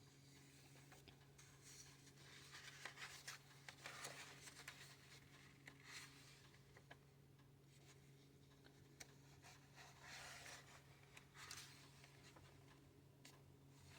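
Faint rustling of paper book pages being turned, in a few soft bursts with light clicks, over a low steady hum.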